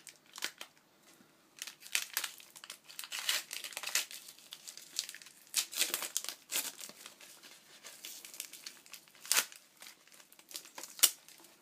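Wrapping paper or packaging being crinkled and torn open by hand, in irregular rustling bursts, with a sharp rip about nine seconds in and another near the end.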